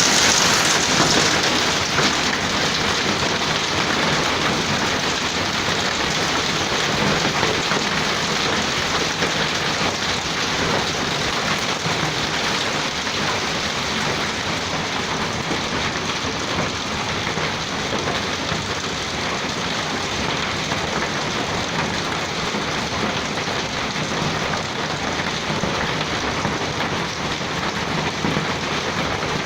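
Heavy downpour falling steadily on surfaces, a dense continuous hiss that is a little louder in the first couple of seconds and then holds steady.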